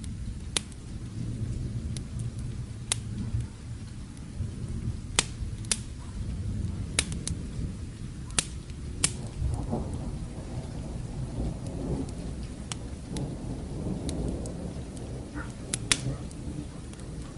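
Distant thunder rumbling low under steady rain, with the sharp pops and crackles of a log fire scattered through it, about a dozen snaps in all.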